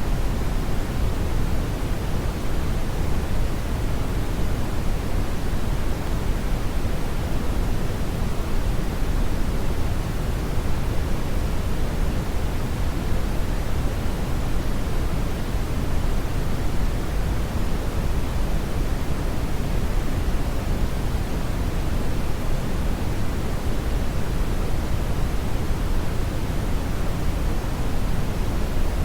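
Brown noise: a steady, even rushing hiss weighted heavily toward the bass, with no changes or events.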